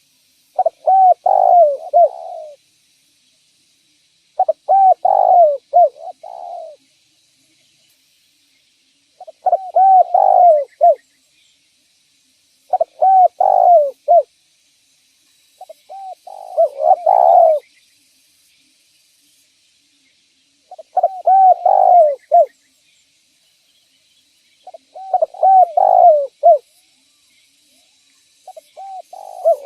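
Spotted dove cooing, repeating its short multi-note phrase about every four seconds, eight times, with silence between the phrases.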